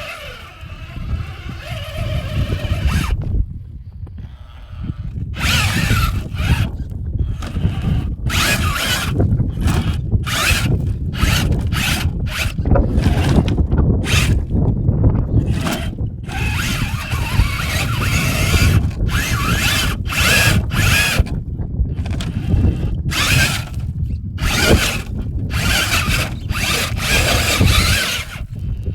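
Rlaarlo JK07PRO 1/7 RC trail truck's electric motor and drivetrain whining in many short stop-start bursts as it is driven, over a steady low rumble.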